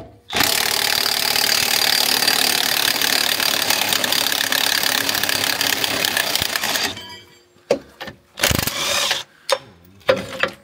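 Pneumatic impact wrench hammering in one long run of about seven seconds, then a few short bursts.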